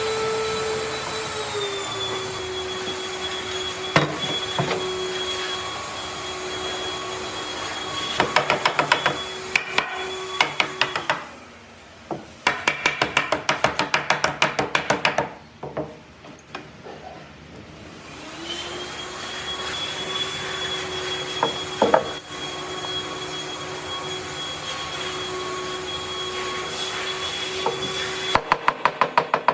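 Electric power tool motor running with a steady whine that drops slightly in pitch a second or two in, as if taking load. It stops around the middle, with bursts of rapid tapping at about eight to ten a second, then spins back up with a rising whine and runs on until near the end, where the rapid tapping returns.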